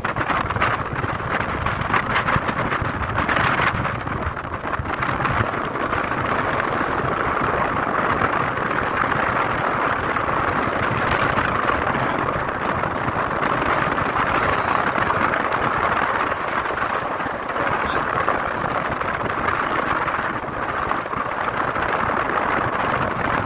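Wind buffeting the microphone over the rush of water along the hull of a ship under way: a steady noise.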